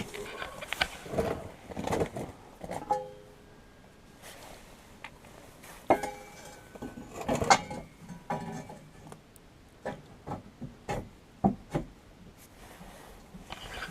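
Irregular metal clanks and knocks, some with a brief ring, from a steel exhaust pipe and tools being handled and set in place. The loudest knocks come about six and seven and a half seconds in.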